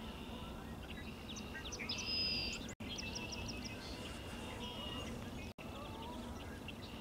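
Several wild birds chirping and calling over a steady low background, with a louder burst of song about two seconds in. The sound cuts out completely for an instant twice.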